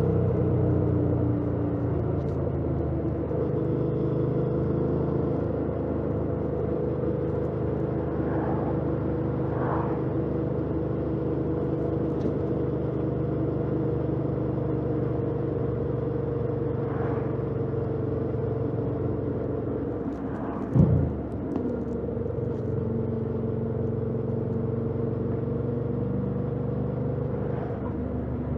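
2018 Yamaha MT-07's parallel-twin engine on its stock exhaust running at a steady cruise, heard from the rider's helmet camera over road noise, its revs easing a little at the start. A brief loud thump about three-quarters of the way through.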